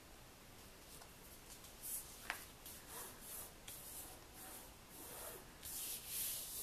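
Hands rubbing and handling cardstock: a series of soft brushing and rustling strokes that begin about two seconds in.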